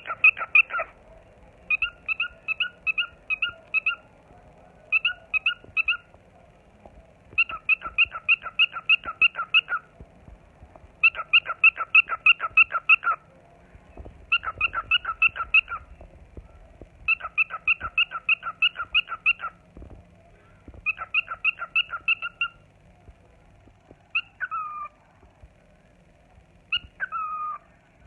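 Pet cockatiel whistling its song: rapid runs of short repeated notes, about four to five a second, in phrases of one to three seconds with brief pauses. Near the end it gives a few falling whistles.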